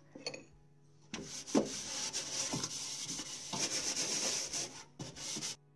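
Kitchen sponge rubbing a thick paste of Pemolux cleaning powder and water over the inside walls of a microwave, in a run of scrubbing strokes that starts about a second in and stops just before the end.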